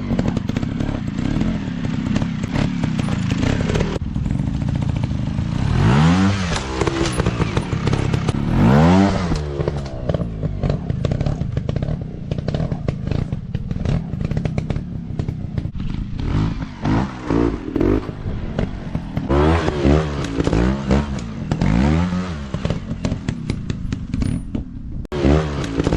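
Dirt bike engines revving up and down in repeated short throttle bursts, the pitch rising and dropping every second or two, with clattering knocks mixed in.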